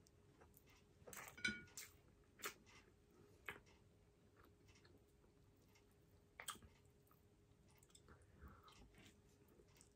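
A person chewing and eating baked salmon with their fingers, heard as quiet, scattered short mouth clicks and smacks. The loudest come in a small cluster about a second and a half in.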